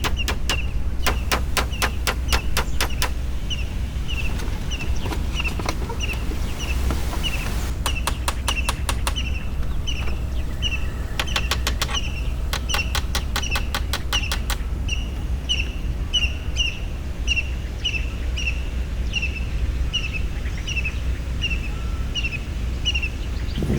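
A bird chirping over and over, one short high note about twice a second. Runs of rapid clicking come and go over the first half, and a steady low rumble lies beneath.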